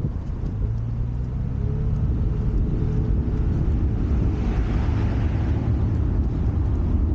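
A 2017 Honda Accord Coupe's 3.5-litre V6 running steadily while the car drives, picked up from outside at the back of the car, with road and wind rumble. A short rise of hiss comes a little past the middle.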